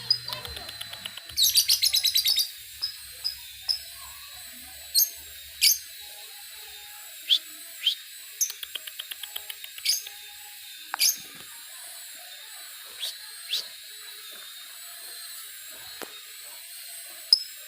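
Lovebirds calling: sharp, shrill single chirps scattered through, with two runs of rapid stuttering notes, one just after the start and one about halfway, the fast 'ngetik' chatter of a lovebird learning it.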